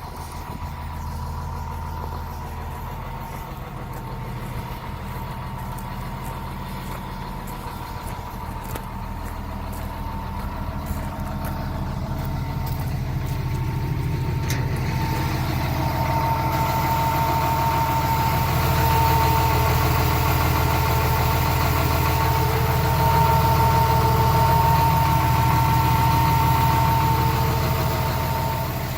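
John Deere 250G excavator's diesel engine running, growing louder from about a third of the way in and holding at the higher level. A steady high whine sounds along with it and strengthens as the engine gets louder.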